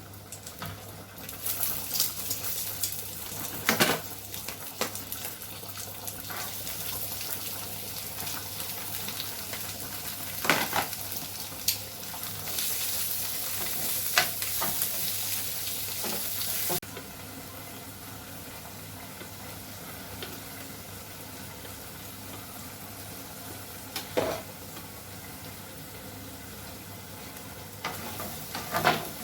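Beef and onion sizzling in a frying pan, with a utensil stirring and knocking against the pan several times. The sizzle is louder in the first half and suddenly quietens just over halfway through.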